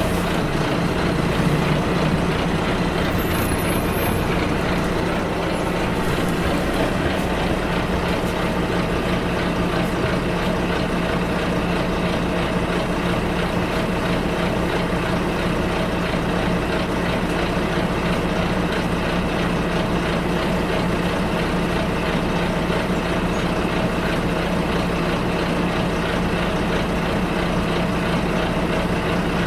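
Bus running along the road, heard from inside the cabin: a steady engine drone with road and tyre noise, a little louder for a moment near the start.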